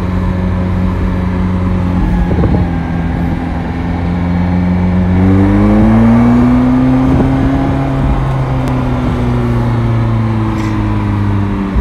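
McLaren 720S twin-turbo V8 heard from inside the cabin while driving, a steady engine drone over road noise. About five seconds in the pitch rises as the car accelerates, then holds and eases slightly.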